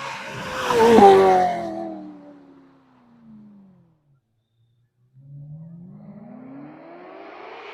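Ferrari 348's V8 with an aftermarket exhaust, passing at speed: the engine note swells to its loudest about a second in, then drops in pitch and fades away. After a sudden break, the engine is heard again, its note rising steadily as the car accelerates.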